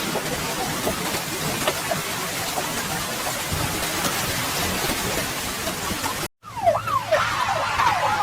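Steady heavy rain-like hiss. After a brief cut to silence about six seconds in, a wailing siren-like tone sweeps rapidly up and down.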